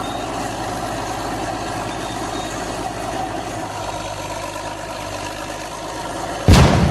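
A heavy vehicle engine idling steadily, with a sudden loud thump near the end.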